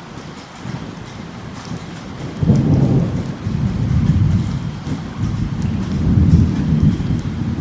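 Thunderstorm: steady rain with scattered drop ticks, and thunder that rolls in about two and a half seconds in and keeps rumbling low and loud, rising and falling.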